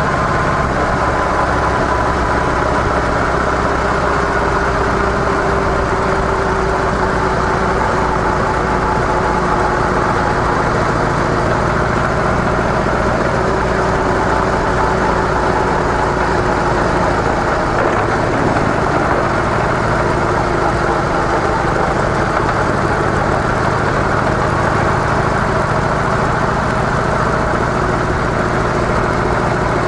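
Harley-Davidson CVO Softail Deluxe's air-cooled V-twin on stock mufflers, running steadily, its note drifting gently up and down in pitch.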